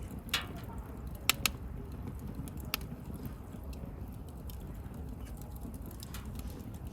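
Wood bonfire burning: a steady low rumble of flame with sharp crackles and pops from the burning wood, four clear pops in the first three seconds and fainter crackling after.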